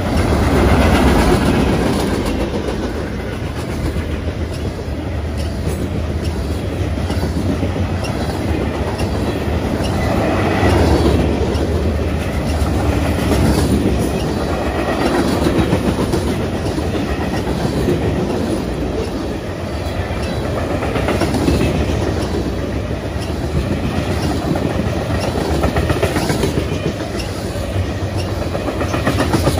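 Long freight train's cars rolling past with a continuous clickety-clack of wheels over the rail joints, the clatter swelling and easing every few seconds.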